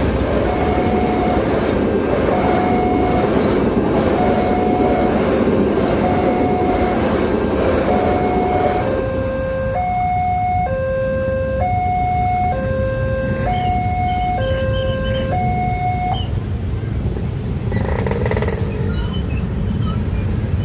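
Railroad level-crossing warning alarm repeating its electronic two-tone signal over the rumble of a passing train. Once the train noise fades, about nine seconds in, the alternating high and low tones stand out clearly, then stop about three-quarters of the way through.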